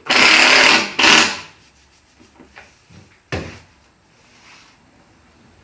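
Wooden drawer parts scraping against each other twice in quick succession, then a single sharp knock, as the pull-out refrigerator drawer is fitted.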